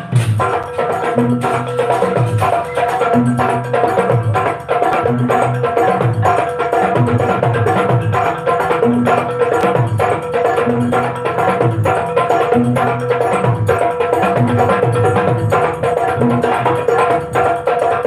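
Two kendang hand drums played together in a fast, interlocking Banyuwangi jaranan rhythm, the deep strokes bending in pitch, over a steady ringing tone.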